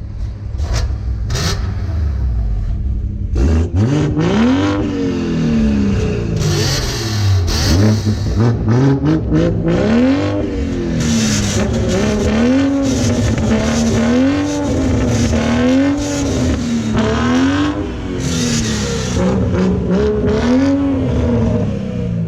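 Car engine idling, then revved hard about three seconds in and swung up and down in pitch over and over, about once a second. Bursts of hiss come and go over the engine.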